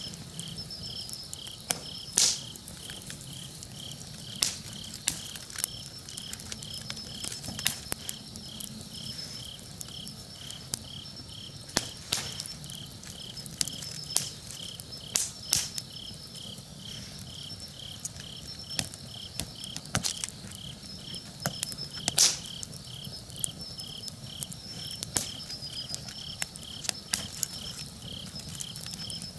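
Campfire crackling with sharp irregular pops, over crickets chirping steadily at about two chirps a second, with a higher insect trill behind.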